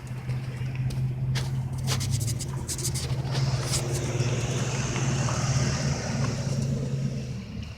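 Truck engine running with a steady low hum that drops away shortly before the end, with scattered clicks over it.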